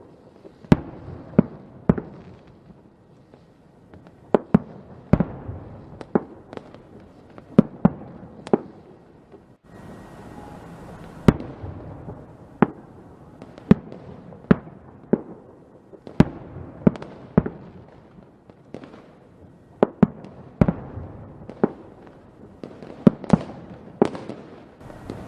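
Fireworks going off: a run of sharp bangs at irregular intervals, roughly one a second, with a haze of crackle and rumble between them.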